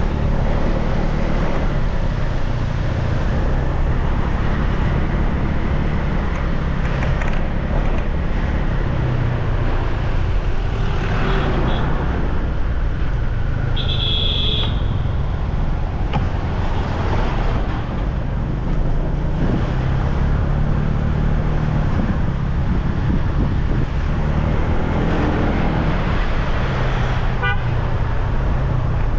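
Riding a motorbike through road traffic: a steady low rumble of engines and road noise. A short high horn beep sounds about halfway through.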